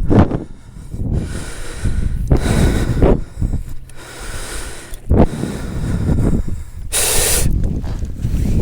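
A person breathing hard, several long noisy breaths in and out, with a short high hiss about seven seconds in.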